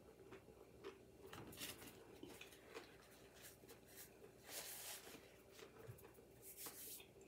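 Faint crunching of a crisp piece of fried salt cod being chewed, with a paper napkin rustling against the mouth about four and a half seconds in.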